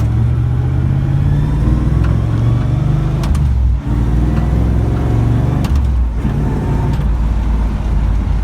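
Car engine, in a car that had sat unmoved for 30 years, running as the car drives off, its pitch rising and falling with the throttle and a brief dip about four seconds in.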